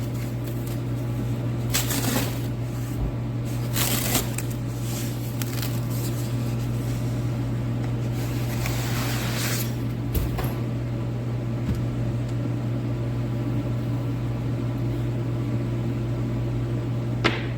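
Steady low hum of an overhead heater running, with a few short bursts of rustling and scraping as packing foam and box material are handled and pulled apart, and a sharp click near the end.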